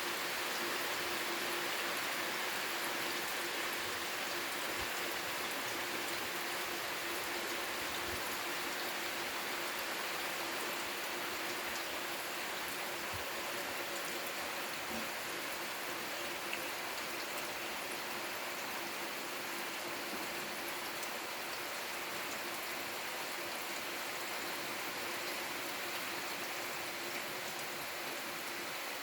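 Steady rain falling, an even hiss of drops with a few faint individual patters.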